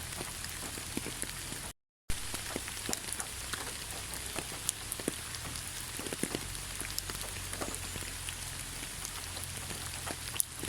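Steady rain with many separate drops clicking as they land. The sound cuts out completely for a moment about two seconds in.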